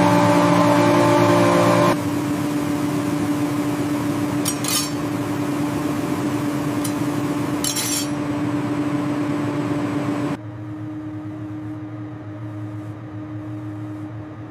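A steady mechanical hum that drops in level and changes its pitches abruptly about two seconds in and again about ten seconds in. Two short clinks come near the middle.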